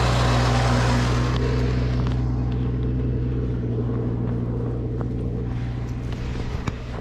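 Snowblower engine running steadily under load, with a broad rushing noise over it that dies down about a second and a half in.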